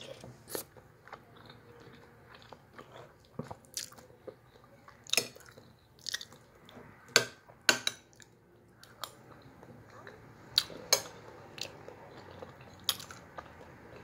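A person chewing and eating a mouthful of stew close to the microphone, with scattered short sharp clicks and smacks about a dozen times.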